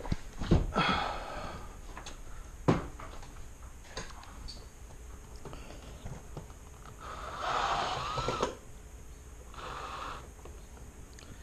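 Knocks and scraping from hand tools and plastic interior trim being worked loose in a car cabin: two sharp knocks early on, then a longer squeaky scrape of plastic a little over halfway through.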